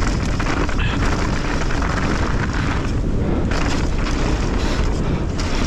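Mountain bike descending a rough trail at speed: a continuous rumble of tyres over dirt and rock, with rattling knocks from the bike and wind buffeting the microphone.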